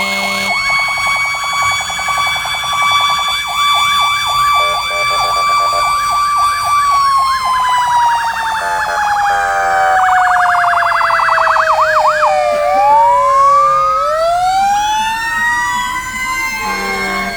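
Several fire truck sirens sounding together: a wail held steady, then falling slowly for several seconds before rising again, with fast yelping sweeps over it. A steady horn blast sounds at the start and again near the end.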